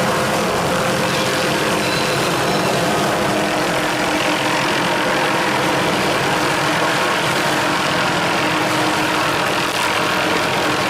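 A heavy machine's engine running steadily at a constant speed.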